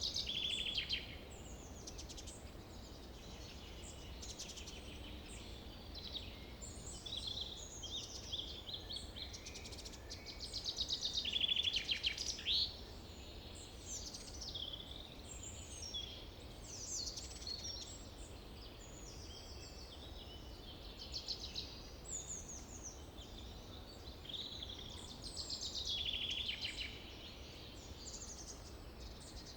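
Several small birds chirping and calling over one another, with louder bursts of rapid trilling about ten to twelve seconds in and again near the end, over a steady low hum.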